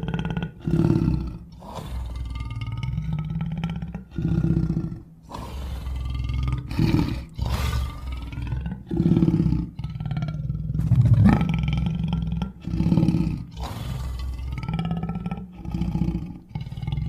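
Bear roars and growls played one after another as a sound-effect montage: a string of deep roars, each lasting one to two seconds and cut off sharply before the next begins.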